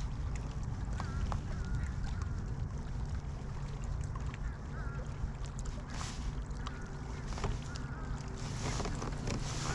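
Faint, scattered bird calls, short wavering chirps, over a steady low rumble, with a few light clicks.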